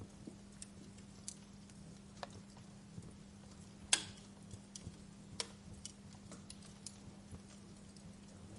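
Fire crackling: scattered sharp pops and ticks, the loudest about four seconds in, over a low steady hiss and a faint steady hum.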